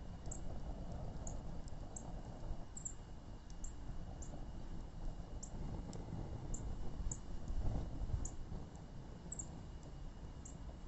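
Wood fire crackling: sharp, irregular pops about once or twice a second over a low, steady rumble of burning.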